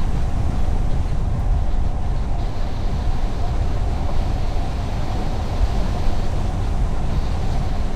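Car driving on the highway: steady road and tyre noise with a low hum, unchanging throughout.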